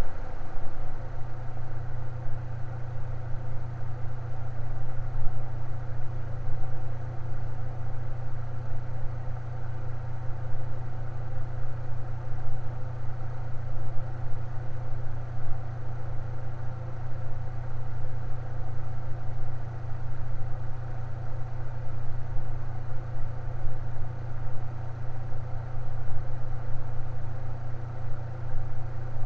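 Electric fan running steadily, with a low, even motor hum and a fainter airy whir above it.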